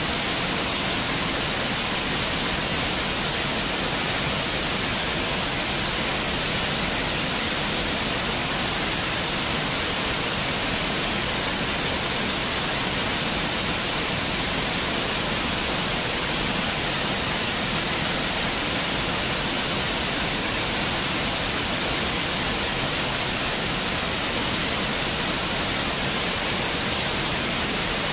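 Running water, a steady, unbroken rush with no bird calls standing out.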